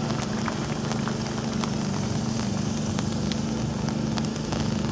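Rain pattering, with scattered sharp drops ticking close by, over a steady low hum.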